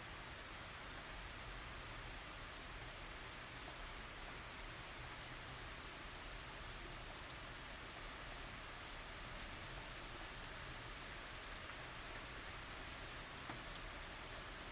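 Steady light rain falling, a continuous even hiss with many fine drop ticks and no thunder.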